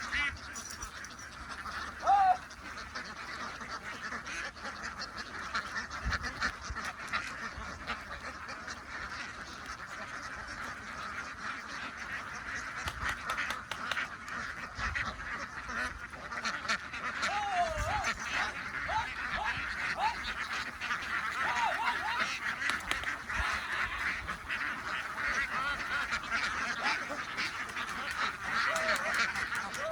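A large flock of ducks quacking continuously in a dense chatter that grows thicker in the second half. There are a few louder single calls, the loudest about two seconds in.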